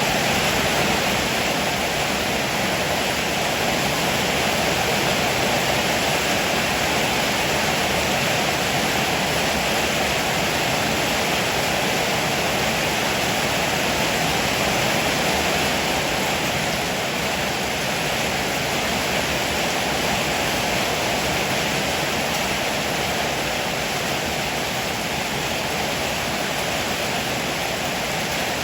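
Heavy rain falling in a steady downpour, without any thunder.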